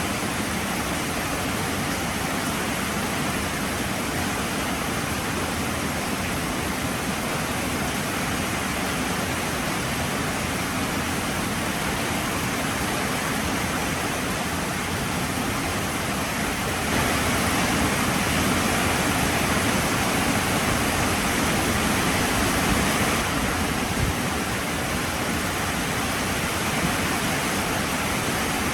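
Heavy rain falling steadily as a dense, even hiss, growing heavier for about six seconds past the middle before easing back.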